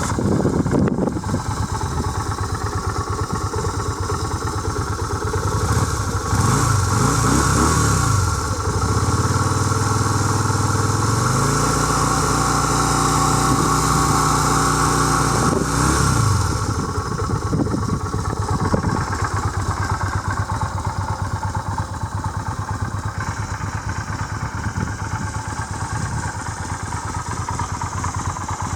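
Yamaha Virago V-twin motorcycle engine running. The revs rise about six seconds in, stay up for around ten seconds, then drop back to a lower, steady run.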